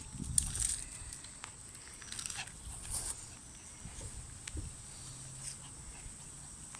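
A dog on a walk: scattered short rustling and snuffling sounds, with a few light taps.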